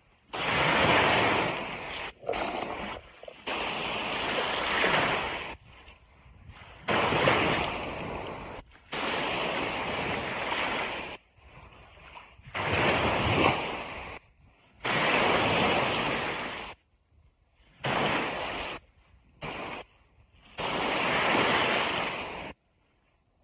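Ocean surf breaking and washing on a beach in repeated surges of a few seconds each, with sudden drops to near silence between them.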